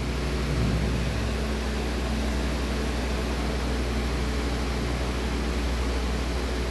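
A steady low mechanical hum under an even hiss, like a fan or air-conditioning unit running.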